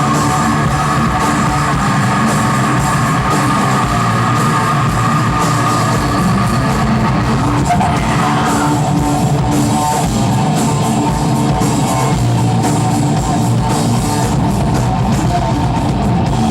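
Live rock band playing loud, with guitar; a long held high note runs through the first half and ends about eight seconds in.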